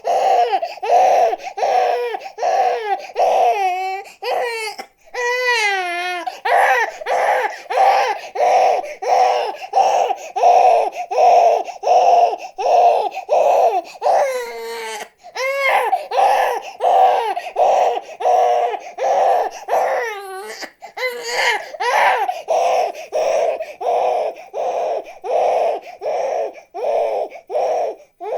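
Infant crying: high-pitched, rhythmic cries of about two a second, broken by a few longer wavering wails.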